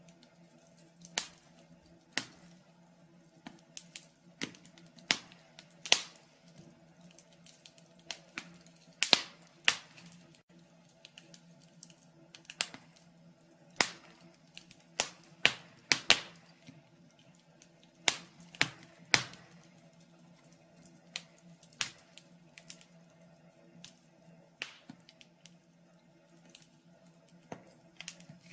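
Wood fire in a fireplace crackling: irregular sharp pops and snaps, sometimes several in a second, sometimes a couple of seconds apart, over a faint steady hum.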